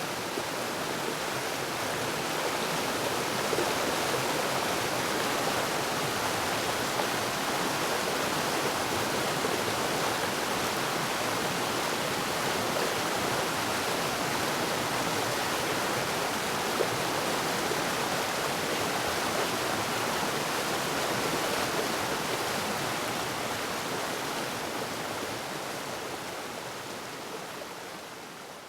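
Waterfall: water pouring steadily in an even, unbroken rush, fading out over the last few seconds.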